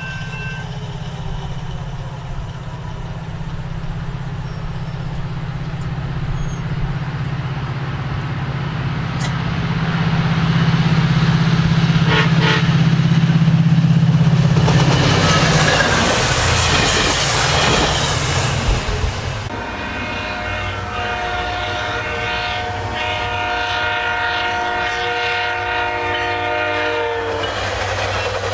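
SunRail MP32PH-Q diesel locomotive running as it approaches, its low engine drone building steadily. Wheel and rail noise rushes by as the train passes. The locomotive horn then sounds one long steady blast of several notes, lasting about eight seconds.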